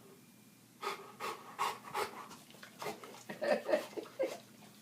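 Dog panting: quick, short breaths about two to three a second, starting about a second in.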